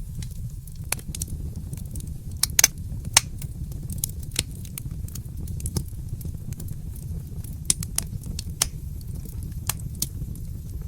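Fireplace fire crackling: irregular sharp pops and snaps over a steady low rumble, with a few louder pops about two and a half to three seconds in.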